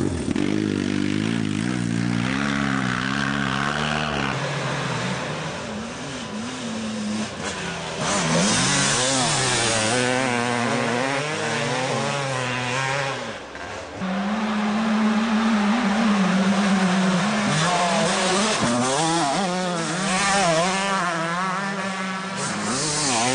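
Honda CR125R's 125 cc single-cylinder two-stroke engine being ridden hard, its pitch rising and falling again and again with throttle and gear changes, with a short drop in revs about two-thirds of the way through.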